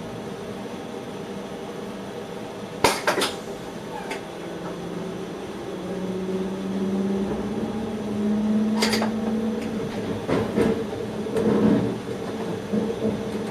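Sounds inside an electric train's driver's cab: a steady hum broken by several sharp clicks, with a low tone that rises slightly in pitch from about six seconds in.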